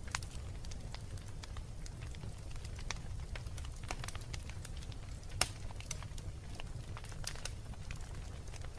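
Wood fire burning in a fireplace: irregular crackles and pops over a low, steady rumble, with one louder pop about five and a half seconds in.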